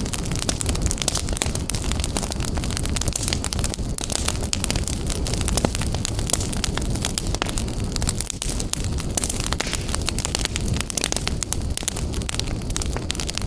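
Wood fire burning in a fireplace, with dense, constant crackling and popping over a low rumble.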